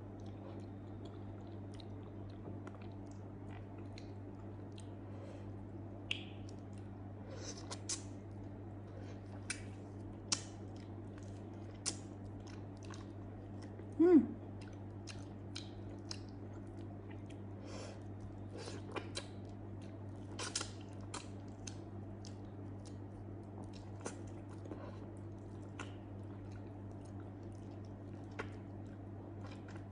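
Close-up chewing and wet mouth sounds of someone eating soft grilled eggplant, with scattered short smacks and clicks over a steady low hum. A single louder, brief mouth sound about 14 seconds in.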